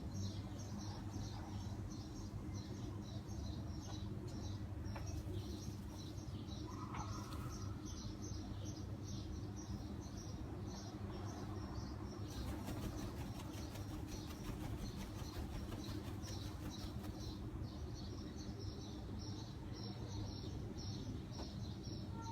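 Bird chirps repeating in a steady run, about three a second, over a steady low hum. One short lower call stands out about seven seconds in, and a spell of fine rapid ticking comes in the middle.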